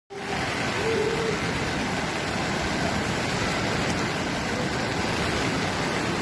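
Steady rushing noise of floodwater, loud and unbroken.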